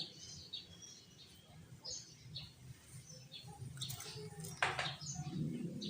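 Sooty-headed bulbul calling: short, scattered chirps and whistled notes, with a sharp click about four and a half seconds in.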